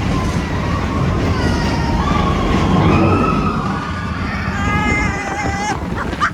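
Expedition Everest roller coaster train rumbling along its track at speed, with riders' long, wavering screams rising and falling over it.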